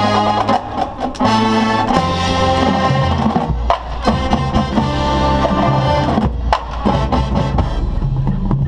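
Marching band playing its field show: held wind chords over drums and percussion hits, the chords changing every second or two.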